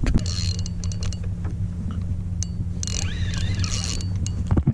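A steady low mechanical hum, like a motor running, with scattered sharp clicks and rattles over it.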